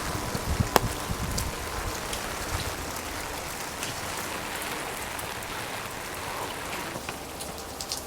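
Rain falling steadily, with scattered drops tapping close by and one sharper tap about a second in.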